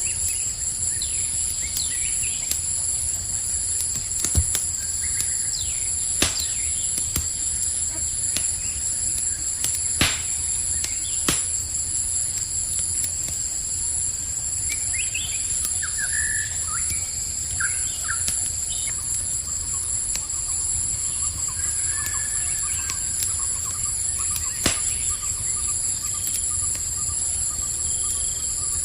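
Campfire crackling with a low steady rumble and five or six sharp pops, over a continuous high-pitched chorus of crickets. A few short bird chirps come about halfway through, followed by a faint thin trill near the end.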